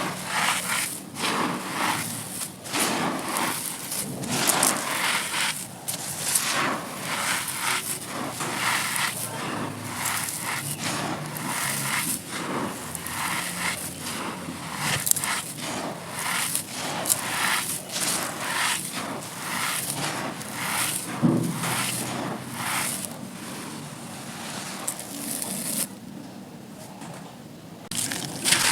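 Dry red dirt chunks being crushed and crumbled: a continuous, irregular gritty crunching and crackling, with a brief lull near the end.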